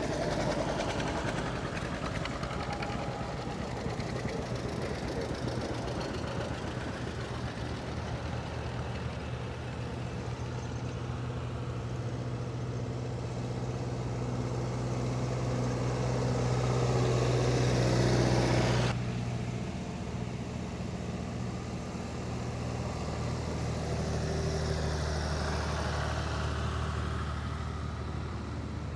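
Antique farm tractor engines running as tractors set off and drive by. One grows steadily louder, then cuts off suddenly about two-thirds of the way through, and another tractor engine carries on.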